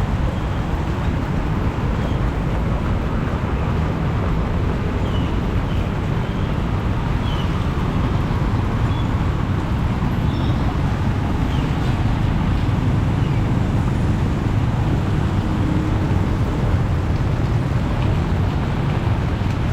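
Heavy rain pouring steadily, with road traffic running through it: an even, unbroken rush with a deep rumble underneath.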